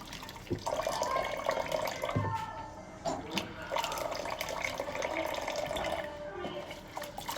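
Kitchen tap running into a sink while dishes are washed by hand, with several sharp clinks and knocks of dishes in the basin.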